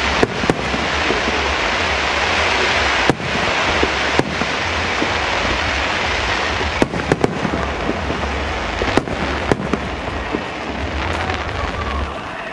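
Fireworks display: a steady, dense wash of burst noise from many shells and ground effects at once, broken by sharp individual bangs, several close together about seven seconds in and two more about nine seconds in.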